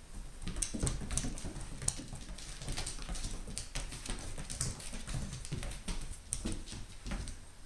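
A cat's paws and claws pattering and skittering on a hard floor as it chases a laser dot: a quick, irregular run of light taps.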